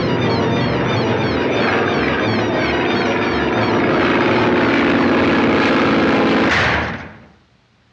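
Cartoon sound effect of a propeller plane's engine running steadily. It swells briefly near the end and then dies away.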